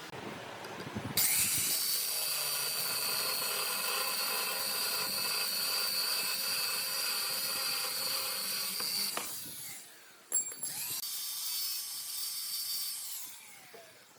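A small high-speed power tool running with a steady high whine for about eight seconds. After a short break and a click, it runs again more quietly and winds down, its pitch falling, near the end.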